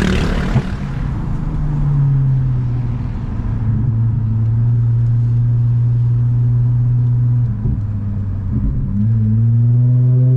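Toyota Mark X V6 with a modified exhaust droning under way. Its pitch drops about two seconds in, holds steady, then climbs again near the end as the car picks up speed.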